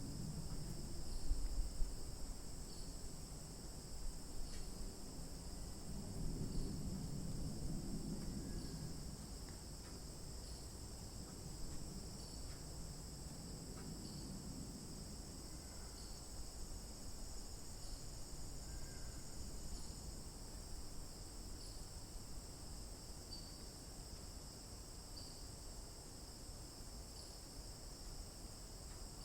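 A steady, high-pitched insect chorus drones without a break. Underneath, a low rumbling noise is loudest in roughly the first half and fades after. A few faint short chirps are scattered through it.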